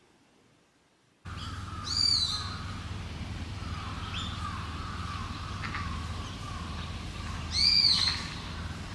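Bird calls: two loud, arched, screechy calls, one about two seconds in and one near the end, over softer chirps and a steady low rumble.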